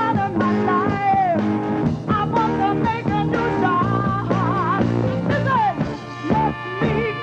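A live band playing an upbeat rock number, with drums, bass and a wavering lead melody line.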